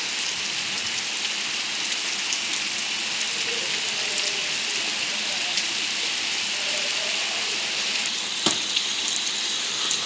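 Heavy rain falling steadily, an even hiss of drops with scattered small taps and one sharper tap about eight and a half seconds in.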